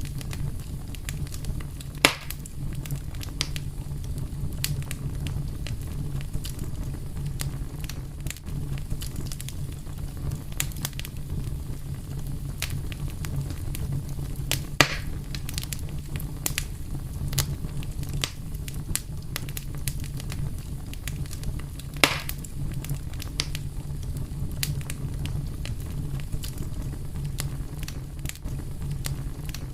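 Fire crackling over a steady low rumble: a constant scatter of small crackles and ticks, with three much louder pops spread through it.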